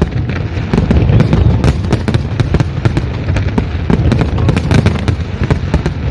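Fireworks display going off continuously: a dense rapid crackle of many sharp bangs over a steady low rumble of booming shells.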